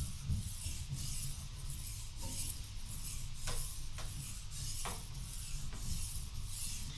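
Steel kitchen knife being stroked back and forth across a sharpening stone, a repeated rasping rub, one stroke after another, grinding the edge toward the tip.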